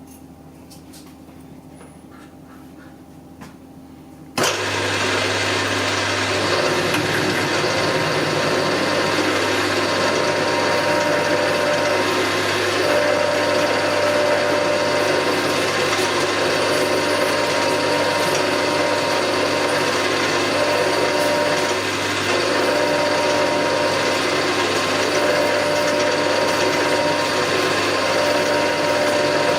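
Milling machine switched on about four seconds in, its motor and spindle then running steadily while drilling a 7/16-inch hole, with a thin tone coming and going over the running noise.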